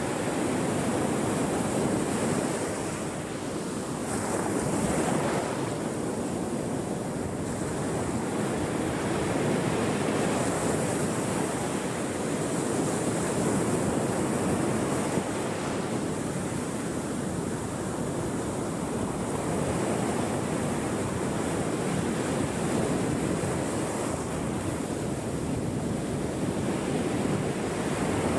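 Ocean waves breaking and washing on a shore, a continuous surf noise that swells and ebbs every few seconds.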